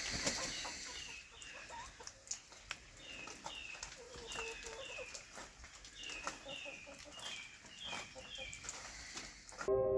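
Chickens calling with many short, high, falling peeps in quick succession, with faint scattered clicks. Mallet-like music cuts in just at the end.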